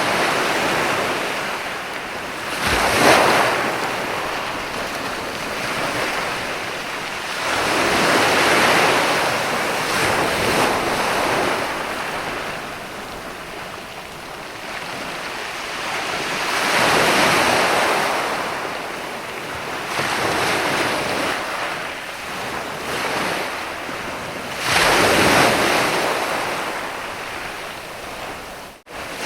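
Sea waves breaking and washing up a sandy beach, in slow surges that rise and fall every several seconds. The sharpest crashes come about 3 seconds in and near the end, and the sound cuts out for an instant just before the end.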